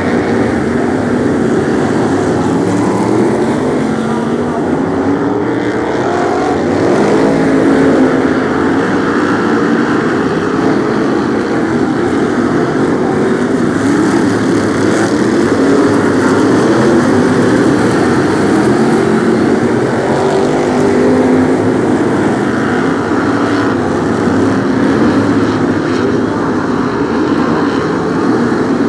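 A pack of Brisca F1 stock cars racing, many engines running together at once. The engine notes keep rising and falling as the cars accelerate and lift off.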